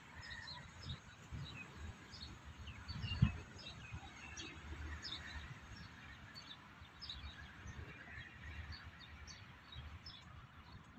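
Birds chirping over and over in short high notes, over a low uneven rumble, with one louder low thump about three seconds in.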